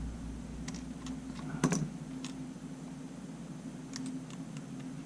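Irregular light clicks and taps of small tools and parts being handled on a workbench, about eight in all, the loudest close to two seconds in, over a steady low hum.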